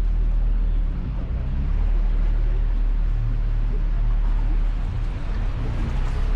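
Canal tour boat's engine running steadily, a low drone.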